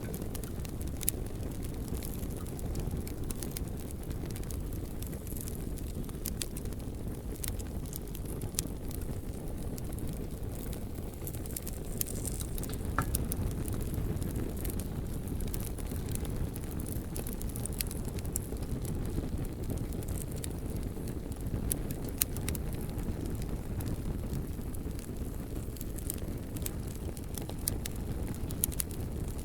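Campfire burning, with irregular sharp crackles and pops scattered over a steady low rumble.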